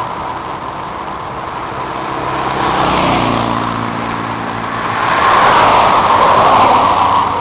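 Motorcycle running at road speed under a steady rushing noise, its engine note falling about three seconds in.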